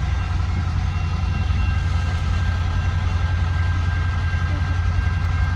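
Freight train rolling past a level crossing: a steady low rumble with a thin, steady high tone above it.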